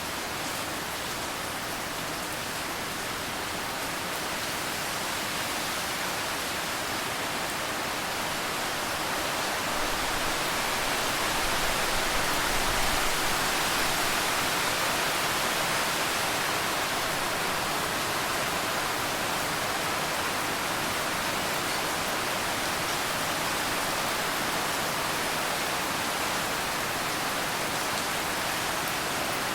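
Steady rain falling, an even hiss that swells slightly about a third of the way in and then settles.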